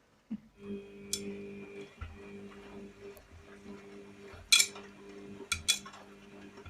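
A steady low electric hum with several sharp clattering knocks and rattles over it, the loudest about four and a half seconds in and two more close together just before six seconds.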